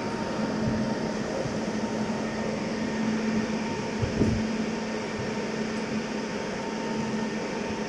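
Indian Railways train running at low speed into a station: a steady mechanical hum with a few low knocks, the strongest about four seconds in.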